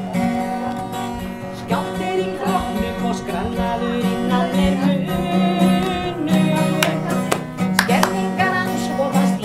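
Acoustic guitar being strummed, with a man's voice singing along.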